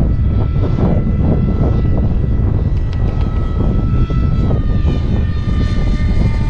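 Electric brushless motor and pusher propeller of a small RC jet-style plane whining steadily in flight, the pitch dropping slightly about four and a half seconds in. Wind buffets the microphone under it.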